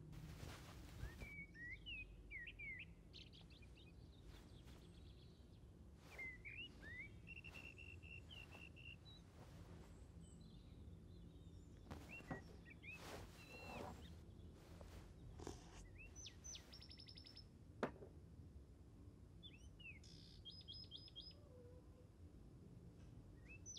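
Faint birdsong: short chirps and rapid trills that recur every few seconds over quiet room tone, with scattered soft clicks and one sharper click about three quarters of the way through.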